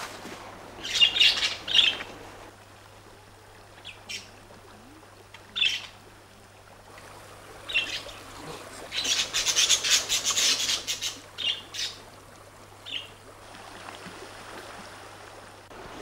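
Birds calling: short, separate high-pitched chirps and squawks through the stretch, with a longer burst of chattering calls about nine to ten and a half seconds in.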